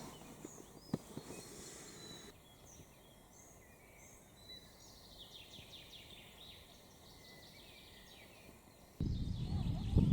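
Faint outdoor ambience with small birds singing: short chirps and quick trills over a quiet hiss. About nine seconds in, a much louder low rushing noise cuts in suddenly.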